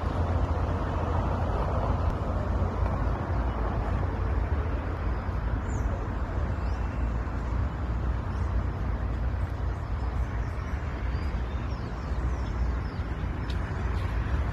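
Steady outdoor noise: wind rumbling on the microphone over a wash of city traffic. From about halfway on, faint short high chirps of birds come through.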